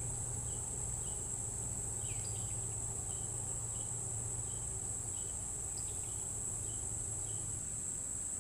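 Steady, high-pitched trill of insects such as crickets, with short chirps from small birds scattered through it and a low steady hum underneath.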